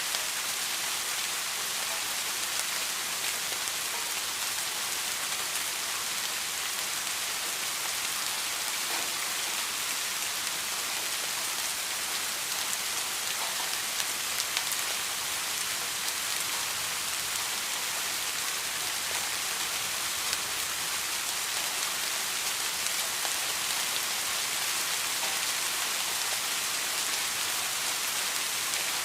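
Steady rain falling, an even hiss with scattered drops ticking on a surface, and a few slightly louder drops about halfway through.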